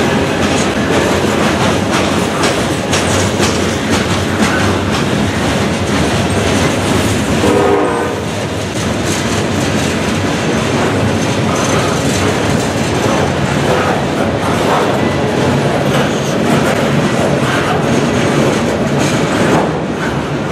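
Freight cars of a CN manifest train rolling past at close range: a steady rumble with the wheels clacking over rail joints. A brief pitched tone sounds about eight seconds in.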